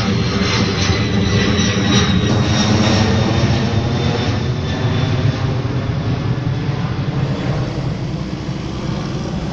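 Delta Air Lines Airbus A321 twin-jet airliner passing low overhead on approach. Loud jet engine noise with a thin high whine, loudest in the first few seconds, then slowly fading.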